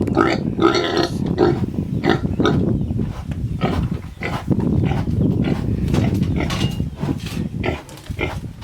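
Philippine native pigs at feed sweetened with molasses. For about the first second and a half they give short, pitched squealing grunts, then they grunt and chomp noisily at the food, excited by the sugar smell.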